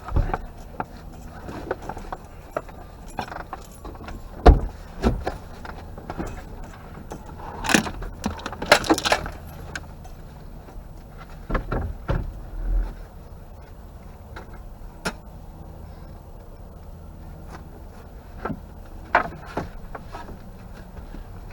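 Irregular knocks, clunks and metallic rattles of a pit bike being handled and moved at a truck, loudest around the middle, over a faint low steady hum.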